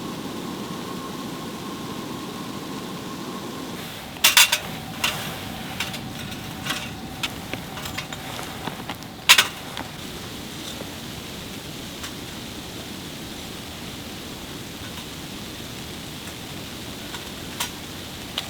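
Clinks and knocks of camp dishes and utensils over a steady rushing background noise. The clinks come in a quick cluster about four seconds in, with a sharper, louder one about nine seconds in and a few lighter taps scattered after.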